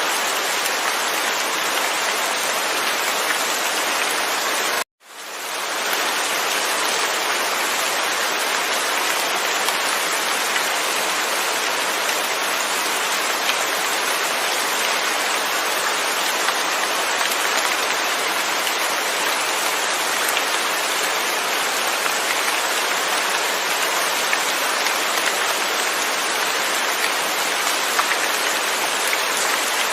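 Steady, dense rain falling, with no thunder. About five seconds in it cuts out abruptly and fades back in over about a second.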